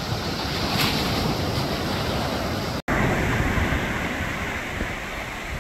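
Wind buffeting the microphone over the wash of surf on the shore, a steady rushing noise that cuts out for an instant about halfway through.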